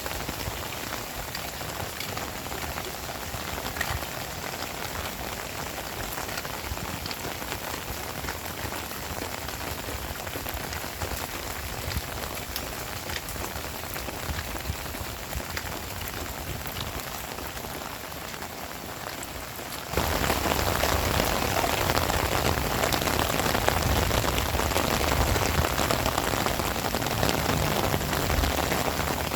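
Heavy rain pouring steadily, a dense hiss of many drops striking surfaces. About two-thirds of the way through it suddenly becomes louder and fuller.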